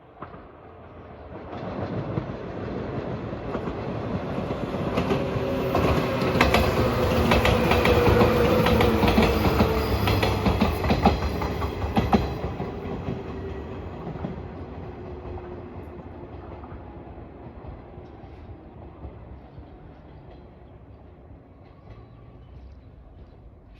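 Train passing a level crossing: it approaches, its wheels clatter over the rail joints at its loudest about halfway through, and it fades slowly away. A hum under the clatter drops slightly in pitch as the train goes by.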